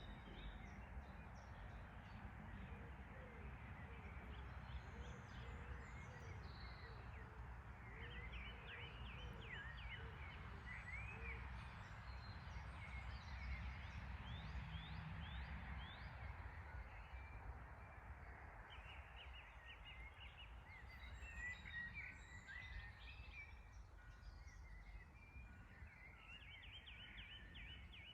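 Songbirds chirping in quick clusters over a steady low rumble, all faint.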